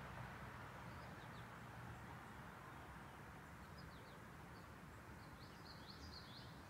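Quiet outdoor ambience: a faint steady hiss with a few short, high bird chirps, most of them bunched together near the end.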